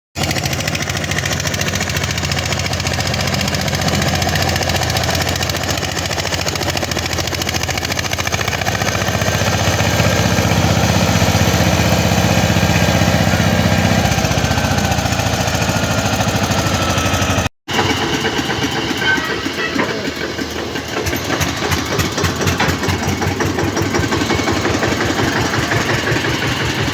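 Eicher tractor's diesel engine running steadily, with a brief dropout about two-thirds of the way through, after which it carries on with a rougher pulsing sound.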